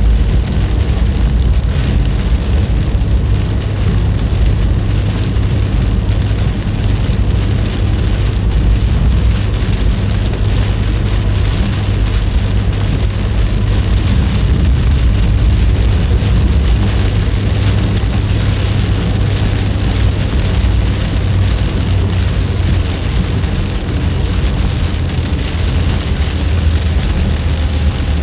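Heavy typhoon rain pattering steadily on a moving car, over a constant low rumble of the car's tyres and engine on the wet road.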